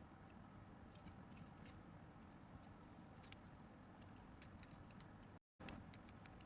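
Near silence: a low background rumble with faint, scattered small clicks and ticks, irregular and several a second. The sound cuts out completely for a moment about five and a half seconds in.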